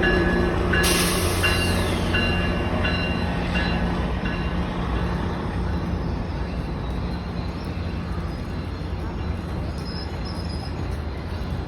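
GO Transit MP40PH diesel-electric locomotive pulling a train in. Its bell rings about twice a second for the first few seconds. A sudden burst of air hiss comes about a second in, and the engine's hum and the rolling of the train carry on, slowly getting quieter.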